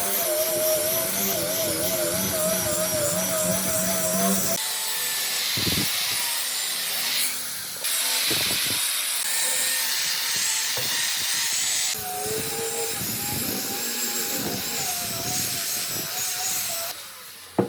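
Electric power tool working wood, its motor tone wavering under load. The sound changes abruptly about every four seconds and drops away near the end.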